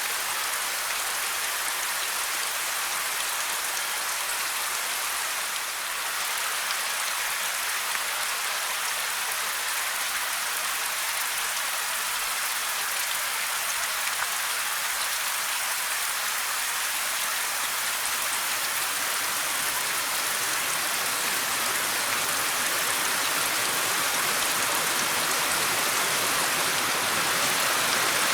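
Steady rain falling, an even hiss strongest in the high range, growing a little louder and fuller toward the end.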